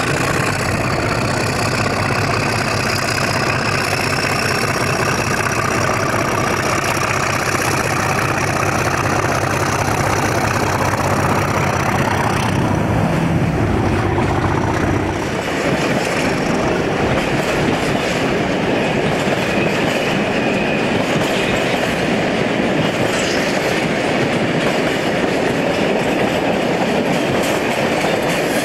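Diesel locomotive hauling a long train of bogie tank wagons passes close by: its engine drones steadily for about the first half, then the tank wagons roll past with a continuous rumble and clatter of wheels on the rails.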